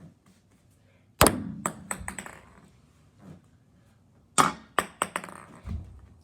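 A small ball bouncing on hard surfaces during a trick-shot throw. One loud hit about a second in is followed by several quicker, lighter bounces. A second run of bounces begins about four and a half seconds in, the bounces coming closer and closer together.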